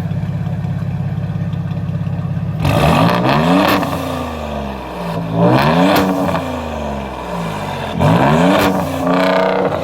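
Ford Raptor's twin-turbo EcoBoost V6 through a Corsa Extreme catback exhaust and downpipe: a steady drone, then hard acceleration from about two and a half seconds in. The pitch climbs and drops back three times as the 10-speed automatic upshifts.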